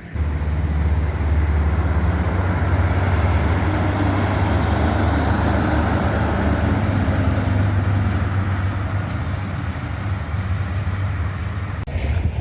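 Heavy truck's engine running close by with road noise, a steady deep rumble that drops away near the end.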